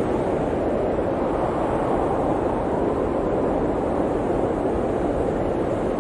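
Blizzard wind blowing steadily as a deep, even rush with low rumble.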